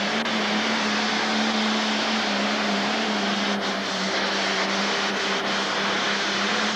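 International 3688 pro stock pulling tractor's turbocharged diesel engine running hard under full load down the track: a steady, loud, held engine note over a dense rush of noise.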